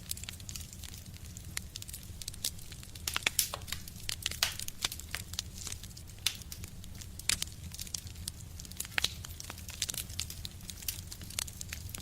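Wood fire crackling in a stove: irregular sharp pops and snaps over a low steady rumble, with a cluster of louder pops about three to five seconds in.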